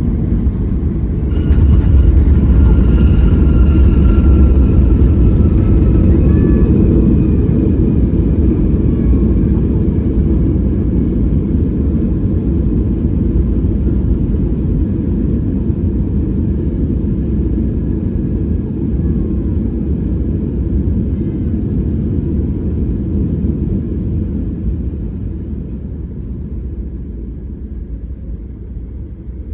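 Jet airliner's engines and rumble heard from inside the cabin during landing: the noise surges about one and a half seconds in, with a whine that slowly falls in pitch, then the rumble fades gradually as the aircraft slows.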